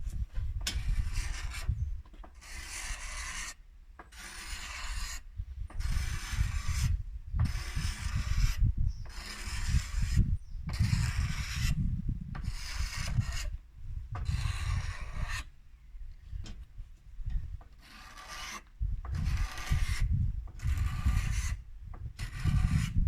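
A hand tool scraping along a wooden bow to smooth its surface before sanding. It rasps in repeated strokes, about one a second, with short pauses between them.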